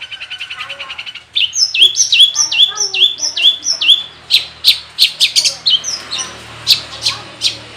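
Long-tailed shrike (cendet) singing a varied medley of mimicked calls. It opens with a fast, even trill, then gives a run of quick whistled notes that drop in pitch, about three a second, and then sharp, loud, separate chips.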